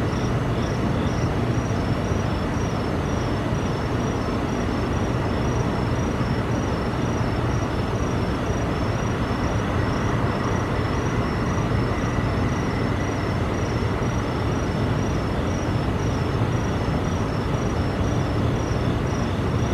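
A steady low rumbling drone, the unexplained noise that residents reported hearing over the neighbourhood, holding a constant level. Insects chirp in an even, rhythmic pulse high above it.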